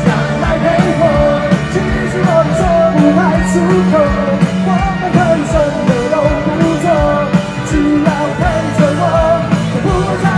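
Live rock band playing loud through a festival PA: a singer carries the melody over bass, guitars and a steady drum beat.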